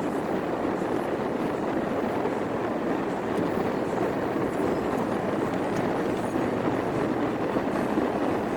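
Car driving on a wet road: a steady rush of tyre and road noise heard from inside the cabin.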